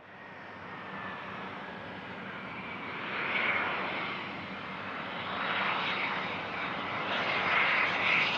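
Business jet engines running, a steady rushing jet noise that grows louder as the aircraft nears.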